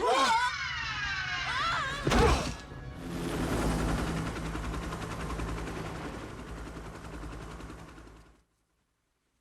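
Film action-scene soundtrack: screeching tones that slide up and down, a loud bang a little after two seconds in, then a steady rushing noise over a low hum that cuts off suddenly near the end.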